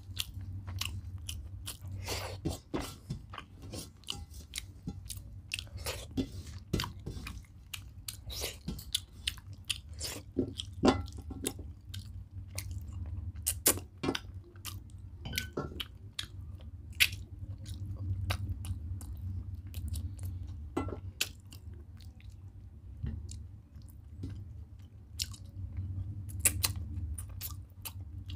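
Close-up chewing and mouth sounds of a person eating chicken curry and rice by hand, with irregular sharp clicks throughout, over a steady low hum.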